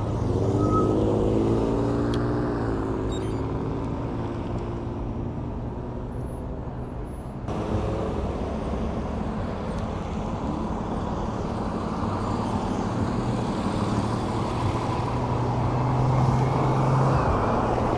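Road traffic heard from a moving bicycle: a steady hum and noise, with a vehicle's engine rising in pitch over the first few seconds. The sound changes abruptly about seven and a half seconds in.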